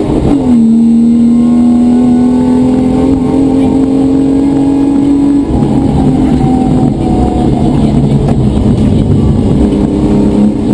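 Rally car engine heard from inside the cabin, pulling hard: the pitch drops at a gear change just after the start, then climbs slowly as the car accelerates. About five and a half seconds in the throttle is lifted and the note falls lower and uneven, with steady road noise underneath.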